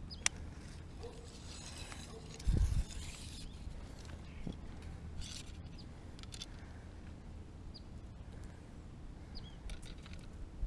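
Quiet outdoor ambience: a steady low rumble with a few faint, short bird chirps, and one brief low thump about two and a half seconds in.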